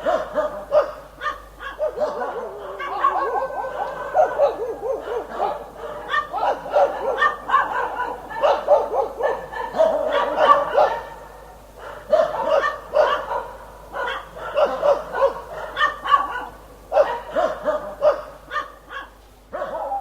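Dog barking over and over in rapid, crowded runs of short barks, with a few brief lulls.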